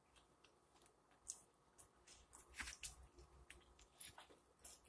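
Quiet chewing of food, with a few scattered soft clicks and wet smacks from the mouth.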